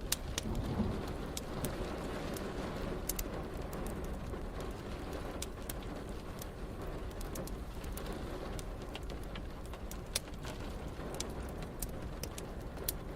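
Steady rain falling, with a wood fire in a fireplace crackling and popping in sharp, scattered clicks over it and a low rumble underneath.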